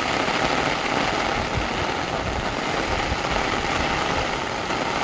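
Heavy rain falling on an umbrella held over the microphone: a steady, even hiss with uneven low thudding underneath.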